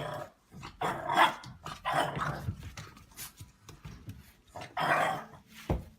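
A dog barking in about four short outbursts, with a sharp knock near the end.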